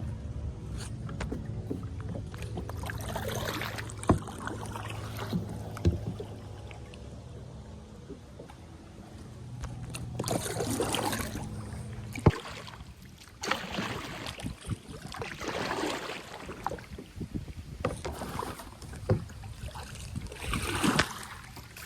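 Kayak paddling: the paddle blade dipping and pulling through the water in repeated splashing strokes, with a few sharp knocks of the paddle against the kayak.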